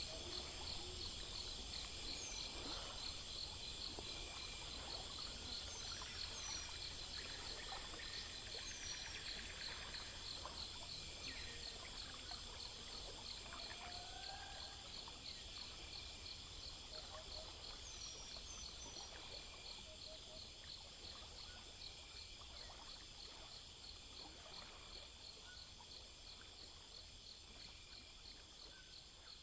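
Night-time chorus of crickets and other insects, rapid steady chirping with a few faint calls scattered through it, gradually fading out.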